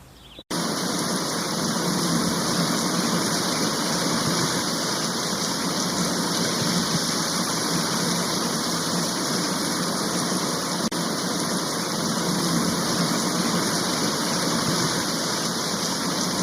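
Floodwater rushing in a steady, loud, unbroken torrent. It starts abruptly about half a second in and dips for an instant near the middle.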